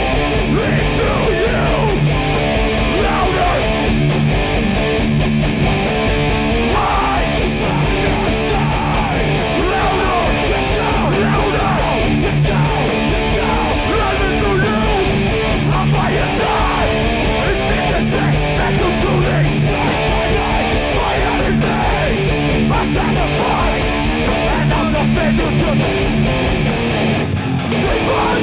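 Hardcore punk band playing live through a PA: distorted electric guitars, bass and drums played loud and steady.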